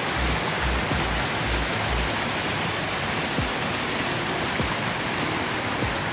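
Steady rain falling, an even hiss with scattered drop ticks. There are some low thuds in the first two seconds.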